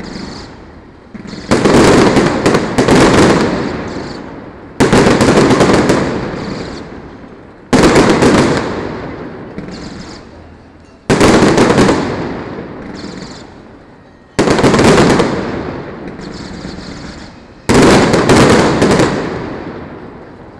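Fireworks display at close range: aerial shells bursting with sharp, loud booms about every three seconds, seven in all, each fading out in a long rumble with some crackle.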